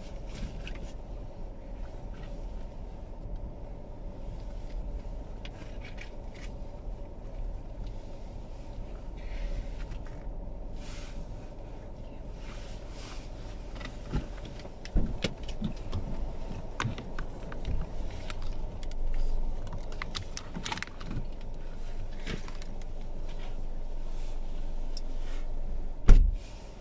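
Keys jangling with small clicks and rattles over a steady low rumble, with one loud thump near the end.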